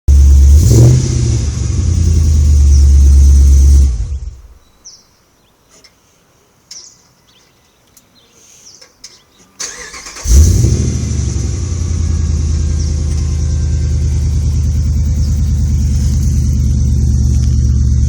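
2011 Jeep Grand Cherokee's 5.7 Hemi V8 through a full aftermarket exhaust: it flares and idles loudly, shuts off about four seconds in, then is started again about six seconds later with a sharp flare before settling into a steady, deep idle.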